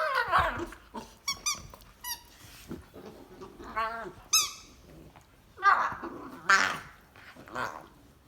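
Harrier hound puppies squeaking and whimpering: a string of short, high-pitched yips, followed by a few breathier whines in the second half.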